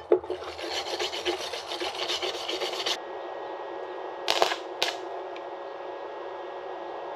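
Fresh weld on a steel scooter fork being scrubbed clean by hand. Rapid back-and-forth scraping strokes run for about three seconds and stop, followed by two short scrapes a little past four seconds in.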